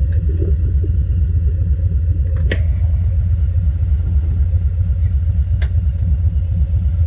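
Harley-Davidson Softail Low Rider's Milwaukee-Eight V-twin idling with a steady, even low rumble, waiting at a red light. Two short clicks come about two and a half and five and a half seconds in.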